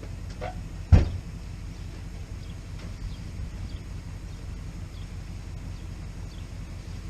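A single sharp thump about a second in, over a steady low rumble, with a few faint clicks around it.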